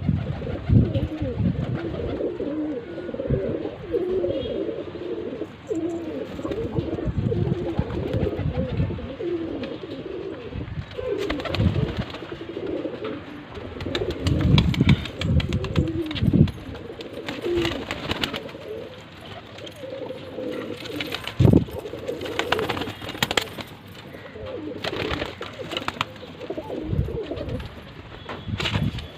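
Domestic pigeons cooing, many low calls overlapping continuously, with a few short sharp noises scattered through.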